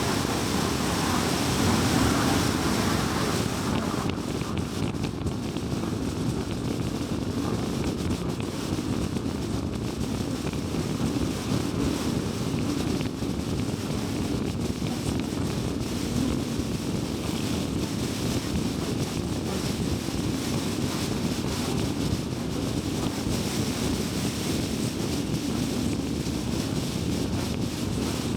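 Steady road noise of a car driving at highway speed: tyre roar and wind rush. A brighter hiss on top drops away about four seconds in.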